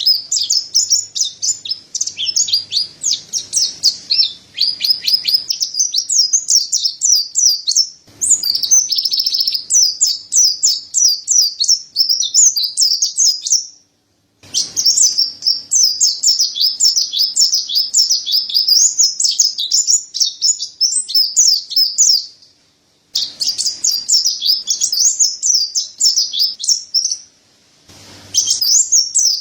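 Mountain white-eye (pleci dada putih) singing a fast, high, twittering song of rapid chirps, broken by a few short pauses.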